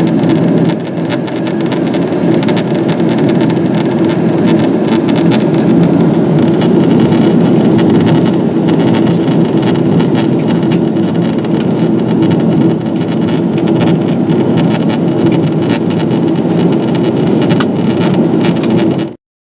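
Steady cabin noise inside a Boeing 777-200ER airliner in descent: a constant rush of airflow and engine noise with a low hum under it. The sound cuts out abruptly for a moment near the end.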